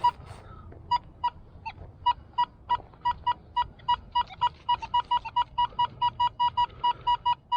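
Metal detector beeping over a buried target: short, high, identical beeps, a few scattered ones at first, then about three to four a second.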